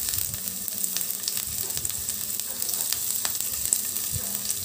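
Chopped garlic and sliced onion sizzling in hot soybean oil in a frying pan: a steady hiss with scattered sharp crackles.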